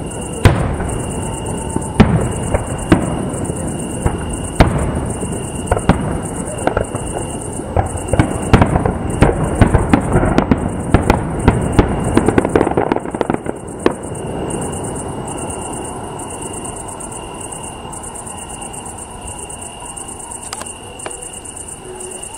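Fireworks display: a rapid run of bangs and crackling shell bursts, densest in the middle and thinning out after about fourteen seconds. Crickets chirp steadily underneath.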